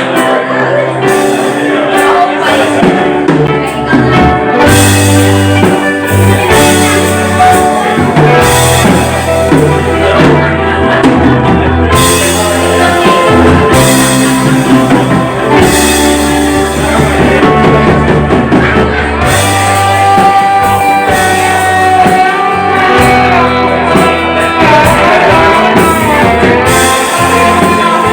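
Rock band playing live, with electric guitar, drums and a singing voice.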